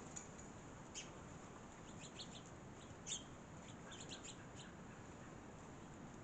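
Small songbirds chirping in short scattered calls, a few bunched together, with one louder chirp about three seconds in.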